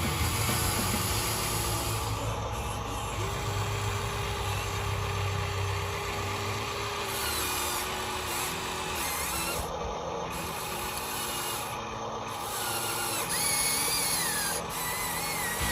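Small electric gear motors of a Huina radio-controlled construction model whining, with the pitch holding steady for a few seconds and then shifting as the motors start, stop and change speed.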